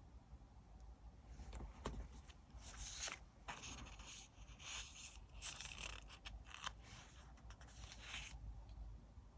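Soft desk-work sounds of paper crafting: paper and sticker sheets being rubbed and scraped on a diary page, with small taps and clicks. It starts about a second and a half in and eases off near the end.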